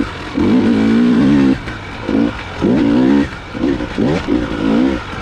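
Dirt bike engine revving in short throttle bursts, about five or six times, each rising in pitch and then dropping back, as the bike is ridden over rough ground.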